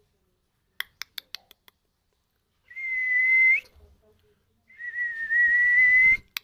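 Pet parrot whistling: two long, steady whistles, the first ending in a short upward flick, after a quick run of about half a dozen clicks.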